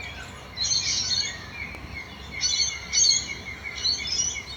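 Small birds chirping in four short, chattering bursts, high-pitched and rapid.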